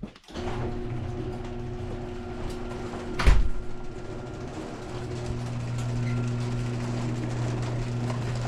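Electric garage door opener running with a steady hum as the door moves, with one sharp knock about three seconds in.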